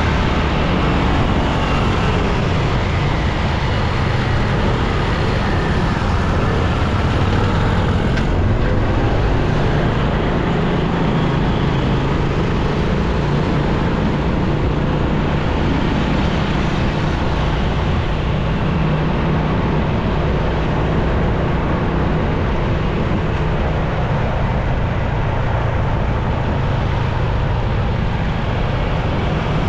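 Motorcycle engine running steadily with road and traffic noise while riding through city traffic.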